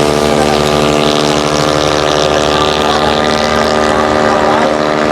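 A steady engine drone, with faint rises and falls in pitch from scooter engines revving.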